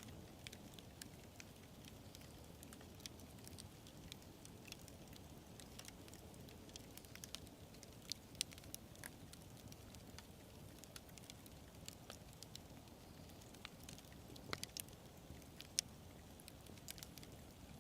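Campfire burning: a soft, steady low rumble of flames with scattered sharp crackles and pops, a few louder pops about halfway through and again toward the end.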